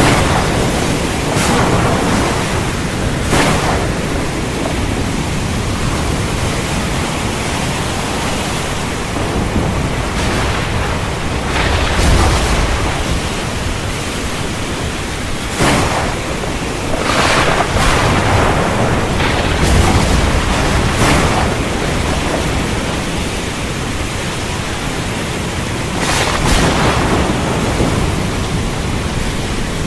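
Heavy rain falling steadily, with thunder cracking several times and rumbling deeply twice.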